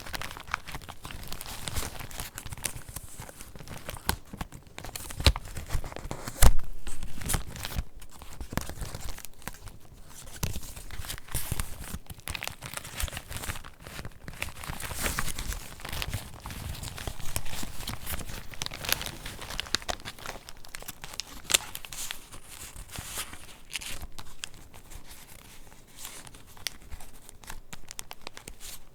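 Paper pages of a handmade junk journal being turned and handled: irregular rustling and crinkling with sharp flicks and taps, the loudest about five and six and a half seconds in.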